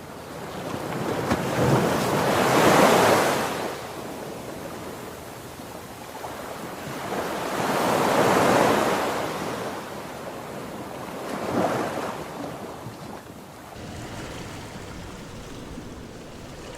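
Ocean waves breaking and washing on a shore: three surges of surf, each rising and falling away, the third shorter and softer, over a steady low wash of sea.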